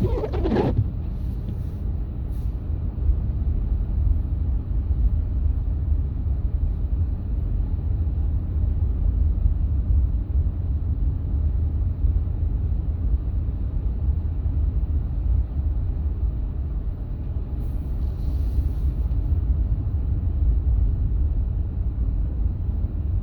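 Steady low road rumble of a moving car. A brief falling squeak comes at the very start.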